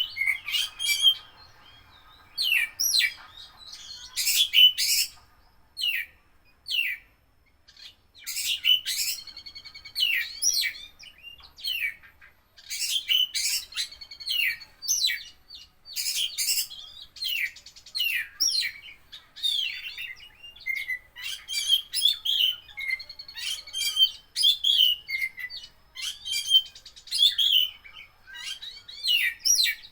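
Oriental magpie-robin (kacer) in full song: loud, varied whistled phrases and rapid trills in quick bursts with short pauses, its song filled with phrases mimicked from other birds.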